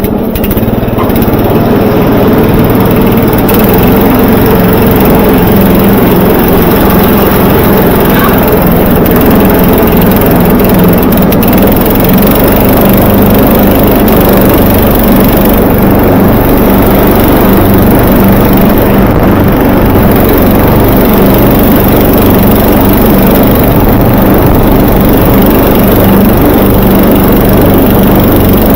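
Vintage Murray 11/36 riding lawn mower running steadily under load while mowing. The engine note is loud and even throughout.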